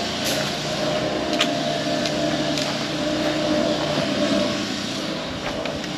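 An engine running steadily: a low, even hum under a constant rushing noise.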